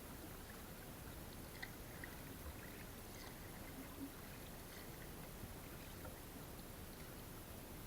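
Faint water trickling and lapping, with scattered small clicks and splashes.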